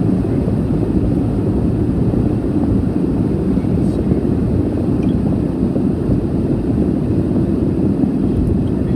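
Steady low road and engine rumble inside a car driving at speed.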